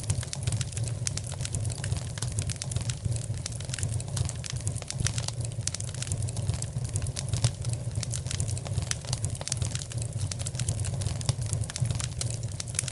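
Log fire crackling, with many irregular small pops over a steady low rumble.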